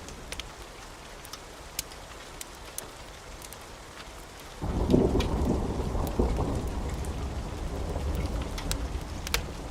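Wood fire crackling with scattered sharp pops. About halfway through, a sudden deep rumble sets in, peaks within a second and lingers to the end.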